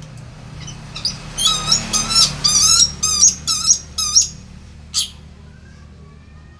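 Pet lory (nuri parrot) giving a rapid run of harsh, squawky calls for about three seconds, then one more call a moment later.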